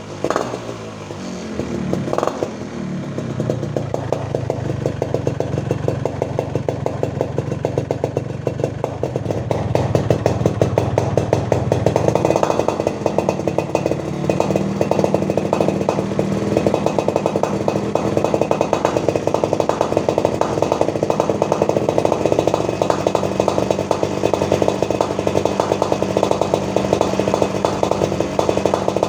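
Yamaha RX-King's single-cylinder two-stroke engine running through a hollowed-out (bobokan) exhaust. Two quick revs near the start, then it settles to steady running that steps up to a louder, faster pace about twelve seconds in.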